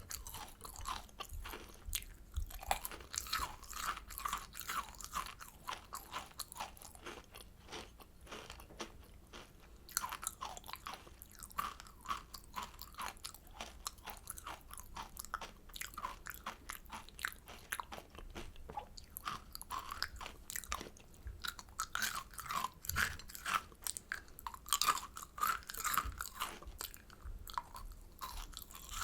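Kohakuto, Japanese crystal jelly candy, being chewed: its crisp sugar crust crunches and crackles between the teeth in a dense, continuous run of small crackles.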